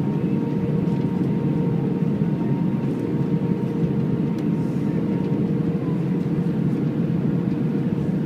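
Steady cabin noise inside an Airbus A319: the low, even roar of the engines and airflow heard from the passenger cabin, with a faint steady tone running through it.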